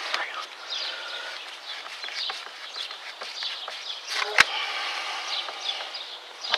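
Birds chirping in the background, with small handling clicks from work on a radiator hose and its clamp; one sharp click about four and a half seconds in is the loudest sound.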